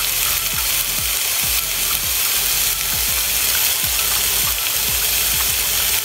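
Tofu cubes and luncheon meat frying in a cast iron skillet: a steady sizzling hiss with small scattered pops, over a low pulsing about twice a second.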